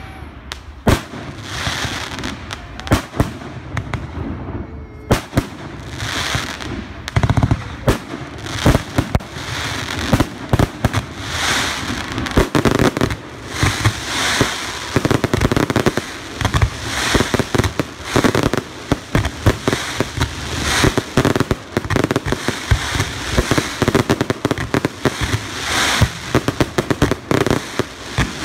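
Fireworks display: a steady stream of aerial shells bursting with sharp bangs, with dense runs of crackling and popping between them, growing busier and louder from about a quarter of the way in.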